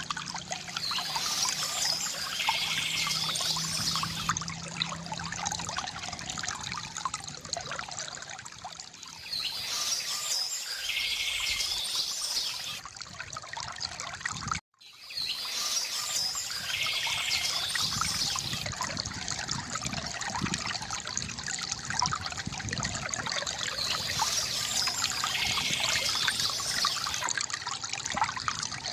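Water trickling and pouring steadily from a bamboo fountain spout, with birds chirping in short bursts every several seconds. The sound cuts out for an instant about halfway through.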